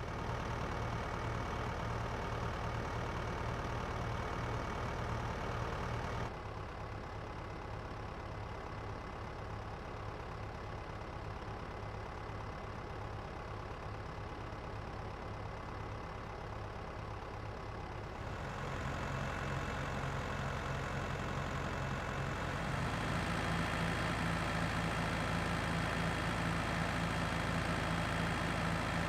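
A motor running steadily with a low hum, changing abruptly in level and tone twice, about a third of the way in and again near two-thirds through.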